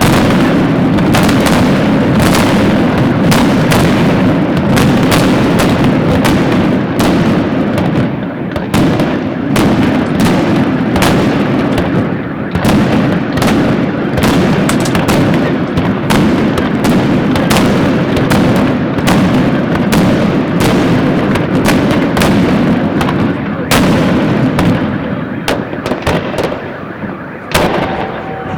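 Fireworks salute: a dense, continuous series of bangs and crackling bursts, several a second, over a steady low rumble.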